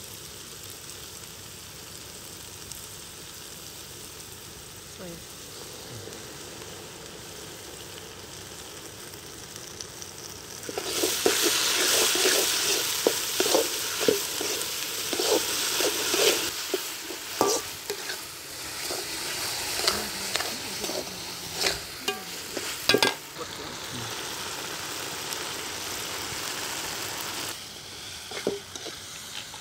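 Diced vegetables and red chilli sauce frying in a large aluminium wok over a wood fire, sizzling steadily. About ten seconds in the sizzle turns much louder as a metal ladle stirs and scrapes the wok, with many sharp knocks, and it falls back to a gentler sizzle near the end.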